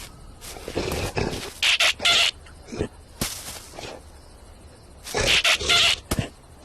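Cartoon sound effects with animal-like squawks and cries, coming in short loud bursts, about two seconds in and again about five seconds in.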